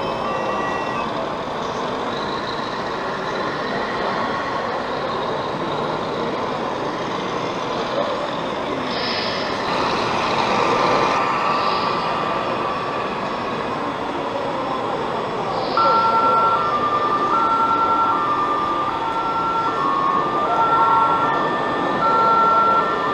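Steady hall background noise; about two-thirds of the way in, an RC model's electronic siren starts, stepping back and forth between a higher and a lower note.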